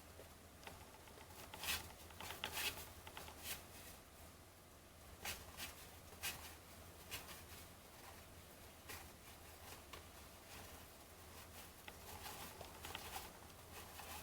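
Baseball trading cards being flipped through one at a time: soft, short card slides and flicks at irregular intervals, roughly one a second, over a faint steady hum.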